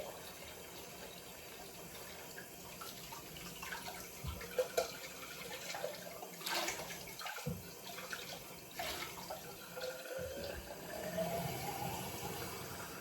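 Water running from a tap into a sink, with several sharp knocks and clinks of things being handled in it.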